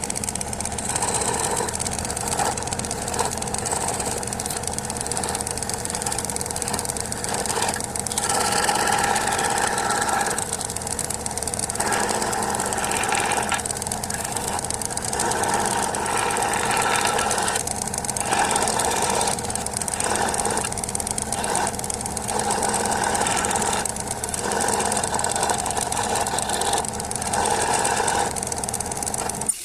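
Electric jigsaw running as it cuts wood, its buzzing motor and blade changing note every second or two as the cut goes on.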